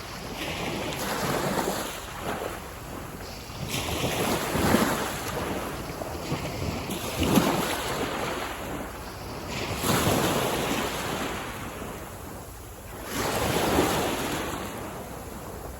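Waves breaking on a beach, one about every three seconds, each a swell of noise that washes in and fades away.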